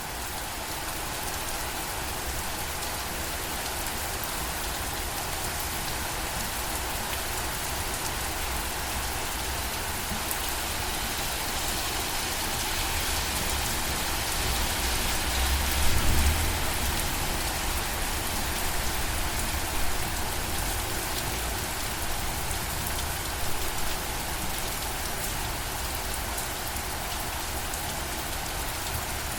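Steady rainfall, with a brief deep rumble swelling about halfway through.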